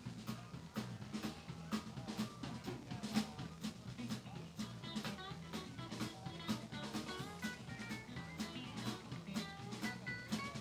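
Live band playing: a drum kit keeps a steady beat with snare and bass drum under a bass line, and a lead guitar plays bending lines over it from about halfway through.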